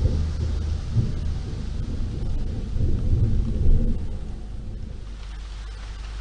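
Thunder rumbling low over a steady hiss of rain, the rumble swelling and then dying away after about four seconds.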